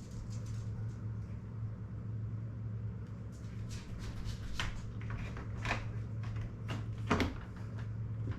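Parts of a Maytag dishwasher door being handled: scattered clicks and knocks of the plastic door panel and its clips, the loudest about seven seconds in, over a steady low hum.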